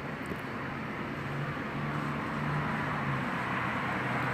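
Steady rushing noise of distant vehicles that grows slowly louder.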